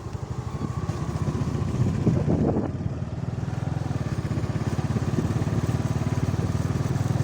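Small motorcycle engine running steadily while under way, its firing pulses continuous and even.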